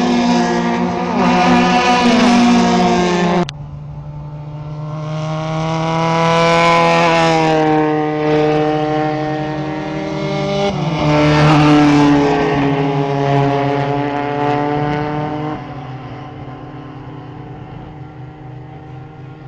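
Racing cars' engines running hard at speed, their loudness swelling and falling twice as cars go past. There is an abrupt cut about three and a half seconds in, and the sound fades away near the end.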